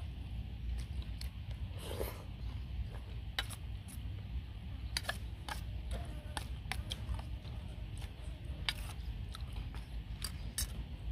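Close-up eating sounds: wet chewing and sharp mouth clicks while eating raw beef salad in blood, with a metal spoon clinking and scraping in a metal tray, over a steady low rumble.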